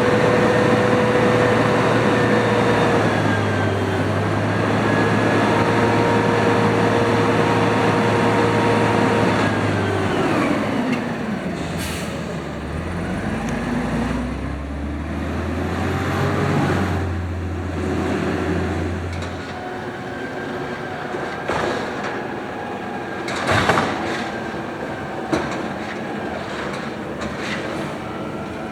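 Automated side-loader garbage truck running its hydraulic packer: engine held at raised speed with a steady whine. About ten seconds in the engine drops away, revs up and falls again, then a few sharp metallic clanks sound near the end.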